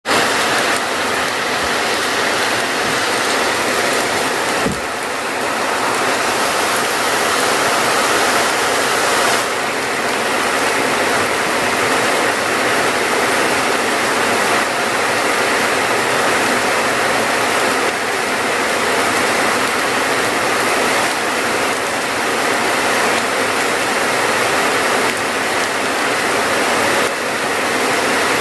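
Steady heavy rainfall, a dense even hiss with no let-up, with one brief low thump about five seconds in.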